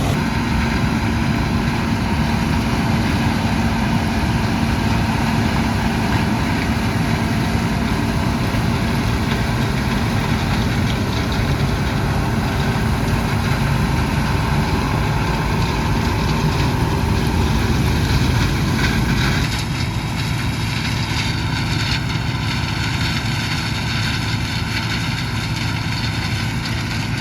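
John Deere 6600 combine running steadily in the field, its engine drone continuous. About twenty seconds in the sound drops in level and changes character.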